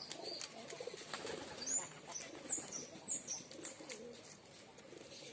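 Domestic pigeons cooing, with three short high chirps from a smaller bird in the middle.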